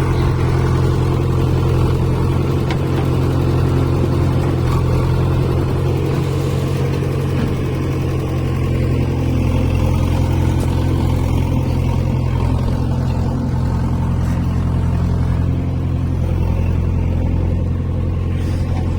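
Heavy diesel engine running steadily at constant speed.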